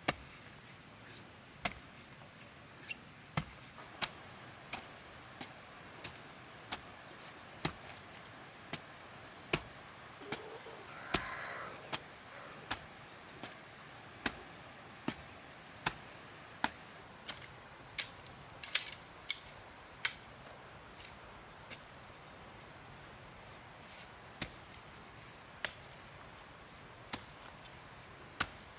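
A hand tool chopping, with sharp single strikes at an uneven pace of roughly one a second. The strikes come closer together about two-thirds of the way through.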